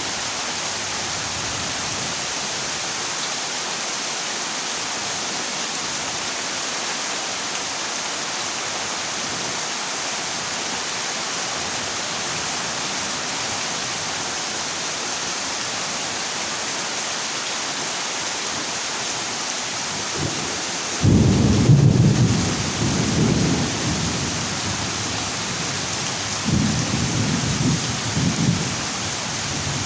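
Heavy rain falling steadily on a corrugated zinc roof. About two-thirds of the way through, a loud clap of thunder breaks in and rumbles for several seconds, followed by a shorter, weaker rumble near the end.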